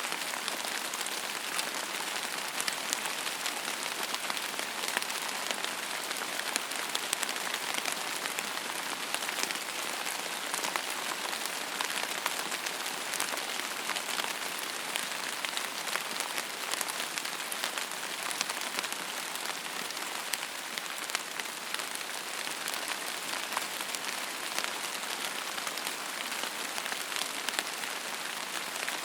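Steady rain falling on a surface: an even hiss dotted with many small, sharp drop ticks.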